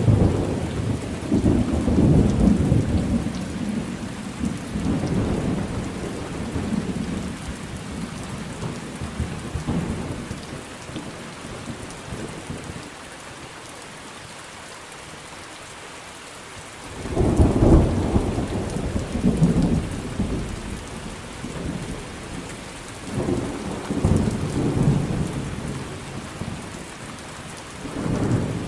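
Steady rain with thunder. A long rumble dies away over the first ten seconds or so, leaving only the rain hiss. A sudden loud clap comes about seventeen seconds in, followed by several further rolls of thunder.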